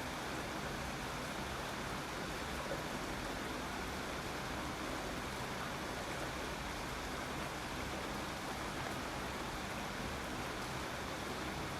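Steady, even rain, a constant hiss of falling water with no separate drops or other events standing out.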